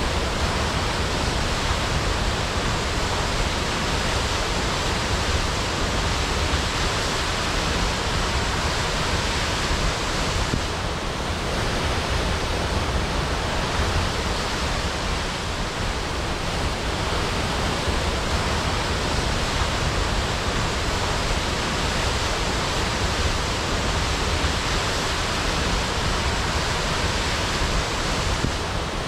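Waterfall crashing: a steady, dense rush of falling water, unchanging throughout.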